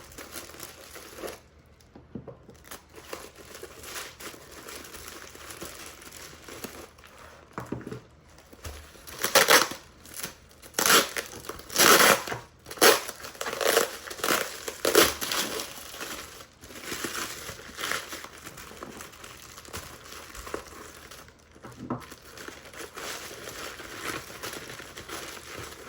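Packaging crinkling and rustling as carved crystal figurines are unwrapped by hand, in irregular bursts that are loudest in the middle stretch.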